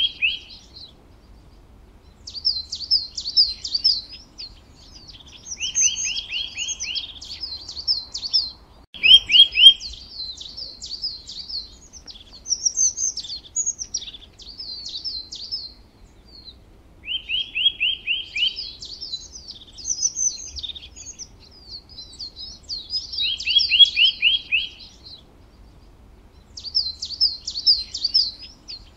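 Songbirds chirping: bursts of quick, high chirps and a lower run of repeated trilled notes, coming back every few seconds with short quiet gaps between.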